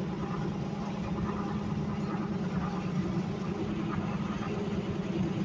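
Steady low rumble of a car driving, engine and road noise running evenly throughout.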